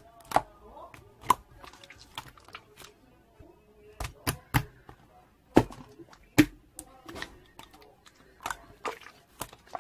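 Slime being squished and pressed by hand, making sharp sticky pops and clicks at irregular intervals, a few of them much louder than the rest.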